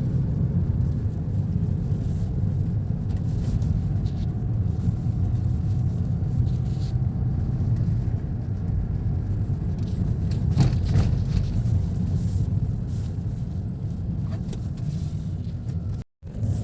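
Steady low road rumble inside a moving car's cabin, with a brief dropout near the end.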